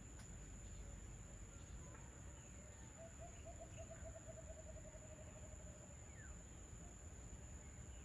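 Faint dusk ambience. About three seconds in, a bird gives a rapid trilled call of low notes, about ten a second, which fades out after about three seconds. Under it are a steady high insect buzz and a few scattered faint chirps.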